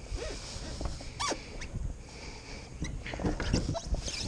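Wind rumbling on the microphone, with a short rising squeak about a second in and scuffs and knocks near the end as someone shifts about in a polyethylene kayak at the water's edge.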